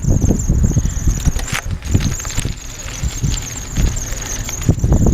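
Mountain bike ridden over a dirt trail: uneven rumble and irregular knocks and jolts from the ride, with a steady high-pitched whine running throughout.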